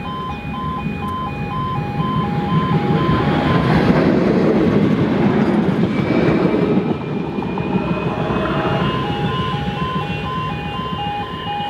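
Level crossing warning alarm beeping in two alternating tones while a tram passes. The tram's running noise swells to a peak in the middle and then fades away.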